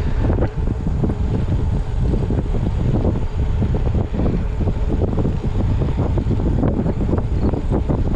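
Wind buffeting the microphone of a camera riding on a moving road bicycle: a loud, steady, gusty rumble.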